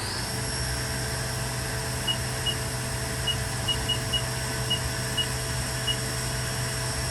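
Haas VF-1 CNC vertical machining center's spindle running at 7500 RPM: a steady high whine that levels off at the top of its climb right at the beginning, over a low hum. About nine short high beeps come at uneven intervals through the middle.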